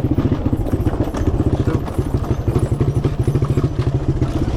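Small off-road vehicle engine running at a steady speed, its firing pulses fast and even.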